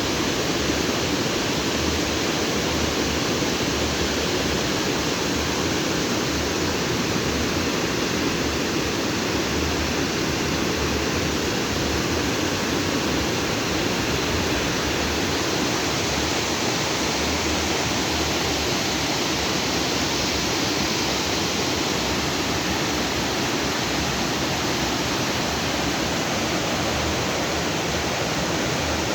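Stream water rushing and splashing steadily over rocks, a constant even rush with no breaks.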